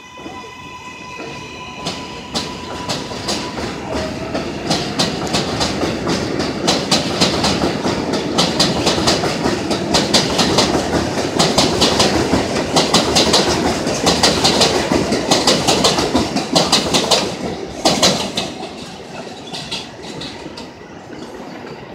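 Electric train accelerating: its motors give a rising whine that levels off into a steady tone. Then the wheels clack rhythmically over the rail joints, growing loud as the cars pass and fading near the end.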